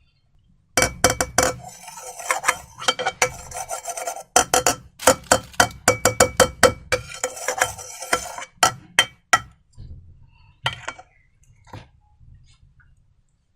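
Slime being stirred and worked in a container: a dense run of rapid sharp clicks with ringing clinks, then a few scattered clicks near the end.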